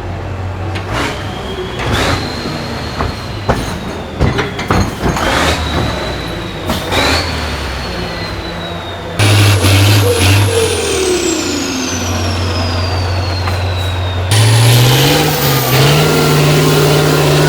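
Custom 4x4 buggy's diesel engine running and revving, with sharp knocks and clanks. A high whistle slides down in pitch over several seconds in the middle, and the engine note climbs and then holds higher near the end.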